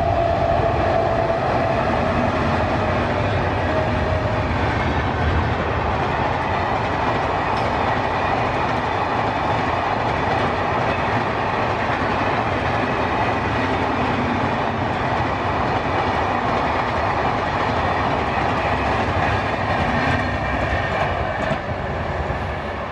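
Express train passing at speed: a loud, steady rush of wheels on rail with clickety-clack. The last of its horn note fades out in the first few seconds, and the sound starts to die away near the end as the train moves off.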